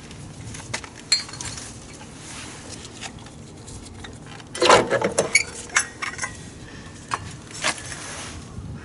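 Metal tools and parts clinking and clattering as they are handled, with a cluster of louder knocks about halfway through, over a low steady hum.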